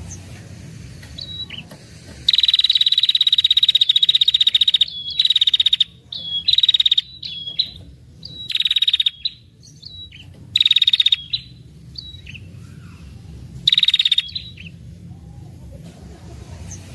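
A female red-headed tailorbird (prenjak kepala merah) gives its 'ngetir' call: rapid high-pitched trills. The first long trill starts about two seconds in and lasts about two and a half seconds, followed by four shorter trills and a few single chirps. This is the excited female call used as a lure to draw in males.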